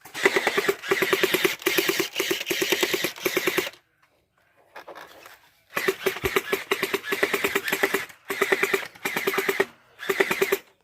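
Battery-powered gel blaster firing on full auto, a rapid string of shots over a steady motor-and-gearbox whine. It comes as several bursts, with a pause of about two seconds near the middle.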